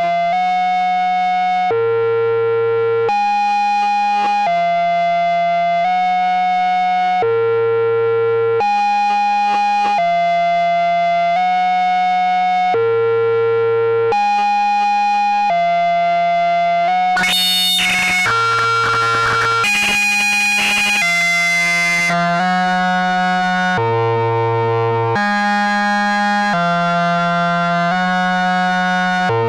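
Arturia Brute-series analogue synthesizer playing a looping sequence of held notes, changing about every second and a bit, with low bass notes recurring in the pattern. About halfway through, the filter cutoff and resonance are opened up for a few seconds, giving a harsh, bright, buzzy sound before it settles back.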